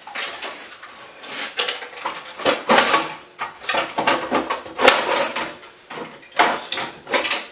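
Metal clattering and scraping as an emergency lighting unit is taken apart by hand to get at its gel cell batteries, in a run of irregular knocks and rattles.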